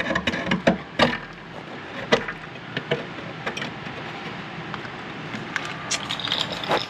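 A few light knocks and clicks, mostly in the first three seconds and again near the end, of a piece being handled and set against the footwell bulkhead, over a steady background hiss.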